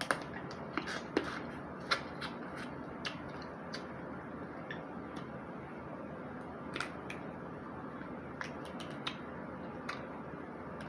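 Close-up eating sounds of snow crab: scattered light, irregular clicks and cracks of crab shell being broken and picked at, and mouth sounds while chewing, over a steady low hiss.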